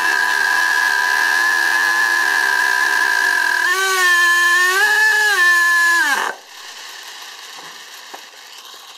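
STS D30M two-stroke nitro engine running steadily, then revving up on its own about four seconds in, surging up and down, before the pitch drops away and it dies about six seconds in. It runs away with no throttle applied and then cuts out, the fault that keeps stopping its running-in.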